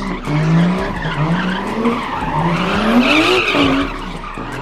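Car engine revving hard three times, each rev climbing in pitch and then dropping back, the last and longest rise near the end.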